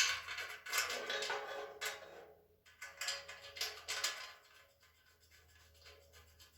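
Metal shelving parts clinking, scraping and rattling as they are handled and fitted together, busy for the first few seconds and then fainter, scattered clicks.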